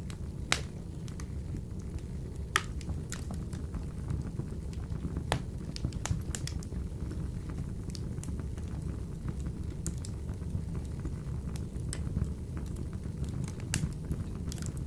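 Wood fire burning in a wood-burning stove: a steady low rumble of the flames with irregular sharp crackles and pops from the burning logs.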